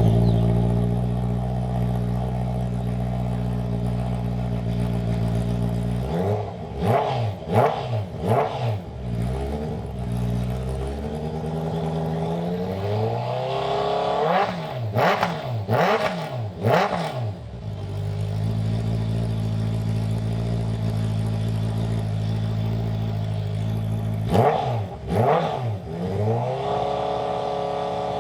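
Honda CBR650R inline-four engine running through an aftermarket Akrapovic Racing Line exhaust with titanium muffler, idling steadily and blipped with the throttle in three bursts of quick revs, settling back to idle between them.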